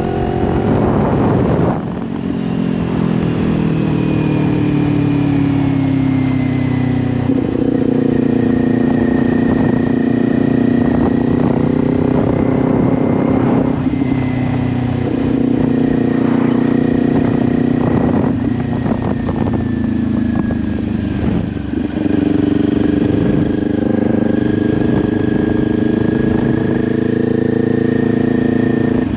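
Kawasaki Ninja 400 parallel-twin engine with an SC Project aftermarket exhaust, running under way on a ride. The engine note holds loud and steady, its pitch slowly sagging and then stepping back up several times, with brief dips in level about two seconds in and near the three-quarter mark.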